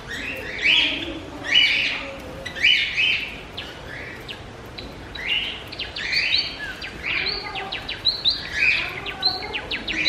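Small cage birds chirping: a run of similar chirps about once a second, turning into quicker, more varied chirps mixed with sharp clicks about halfway through.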